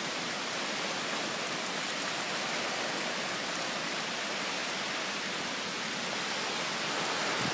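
Steady heavy rain from Hurricane Sandy falling on trees and the ground, a constant even hiss with faint drop ticks and little wind.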